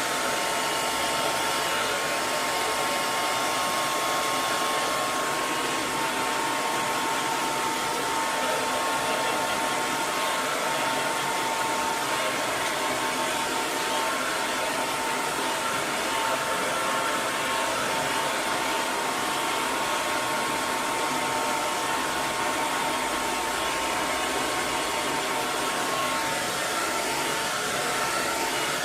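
Hair dryer running continuously: a steady rush of blown air with a faint high motor whine.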